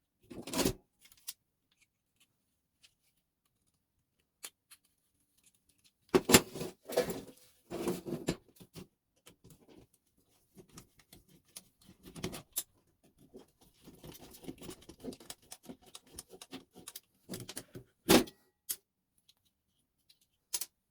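Parts of a Telemecanique fuse switch being handled during disassembly: scattered small clicks and rattles, with several sharper knocks and clatters, the loudest near the middle and about three seconds from the end.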